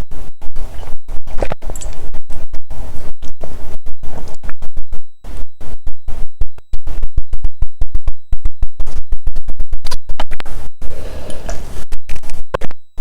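Loud crackling, distorted audio from a badly connected microphone: heavy rumble that cuts out and back in many times a second.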